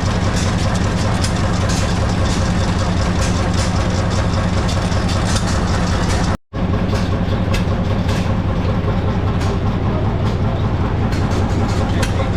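An engine running steadily at a constant speed, cutting out for an instant about six seconds in.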